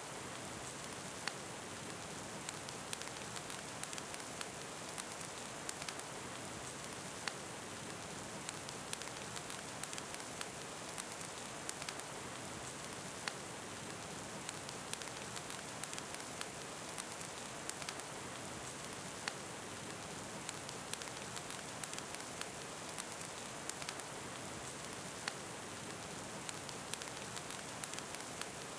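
Steady rain falling, an even hiss, mixed with a wood fire crackling: many small sharp pops scattered irregularly throughout.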